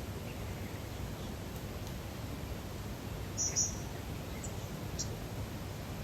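Lakeside nature ambience: a steady low background hush, with a few short high bird chirps. There is a quick pair of chirps about three and a half seconds in, and two single chirps soon after.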